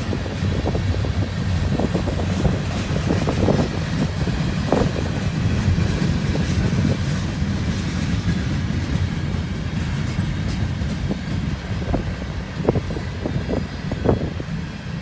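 Canadian Pacific train rolling past: a steady rumble of wheels on rail, with irregular clanks and knocks from the cars, several of them near the end.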